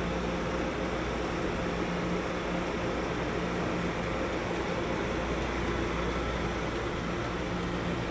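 Steady rumble with a low hum from a train, holding an even level without sudden sounds.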